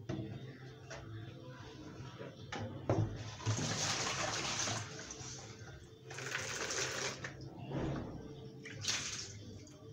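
Water running in short spells of about a second each, twice and then once more briefly, with light knocks and clicks between.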